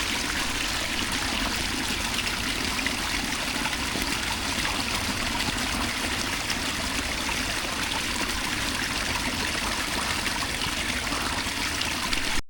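Steady rain falling, an even hiss of water with no breaks, which cuts off abruptly near the end.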